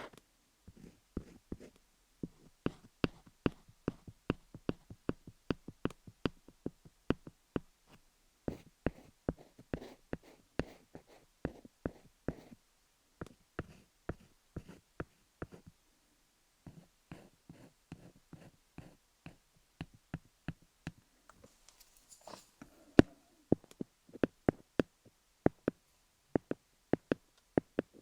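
Colored pencil scribbling and tapping over wooden pins set into a rhinestone-studded dummy head. It makes an irregular run of sharp clicks and taps, about two or three a second, with a short pause about halfway. The taps grow louder and sharper in the last third.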